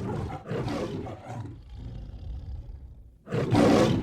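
Lion roaring: a series of rough, growling roars, the loudest near the end.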